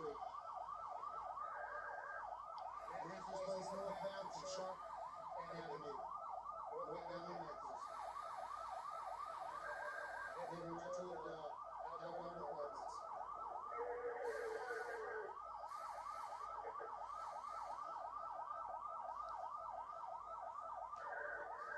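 Police car siren in fast yelp mode, a rapid steady warble that keeps going without a break.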